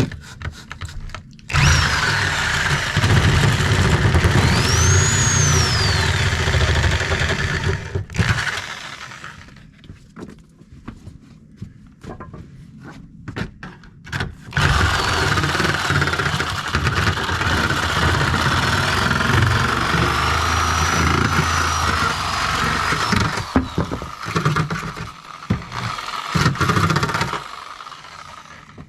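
Seesii CH600 cordless mini chainsaw cutting through the wood of a door frame, in two long cuts with short bursts between. Its motor whine rises and falls as the chain bites and frees.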